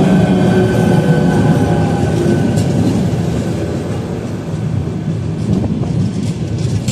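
Electric passenger train with an E68000 locomotive rolling into the station and slowing. A steady motor whine fades over the first couple of seconds, leaving a low rolling rumble with a few sharp clicks from the wheels.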